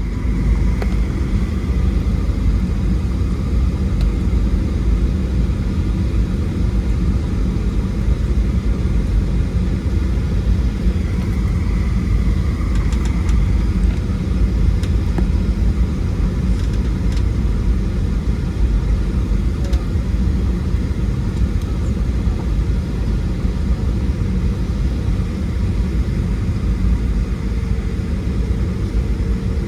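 Steady low rumble of a Boeing 737-700's cabin noise heard from a forward window seat, the drone of the jet and its motion holding an even level throughout.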